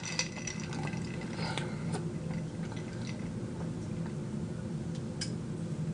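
A person drinking: faint sips and swallows with a few small clicks, over a steady low hum.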